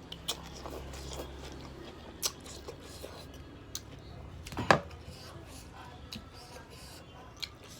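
Eating spicy jajangmyeon noodles close to the microphone: chewing and mouth sounds with a few sharp clicks, the loudest about halfway through.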